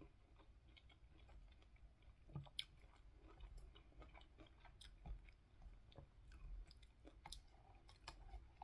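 Faint chewing of soft mango and pineapple chunks, with a few light clicks and scrapes of a fork against a plastic food container as pieces are speared.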